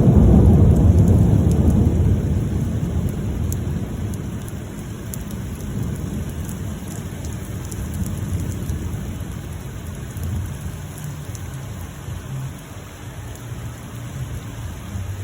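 Thunder rumbling, loudest at the start and rolling away over several seconds, with steady rain falling and scattered drops ticking.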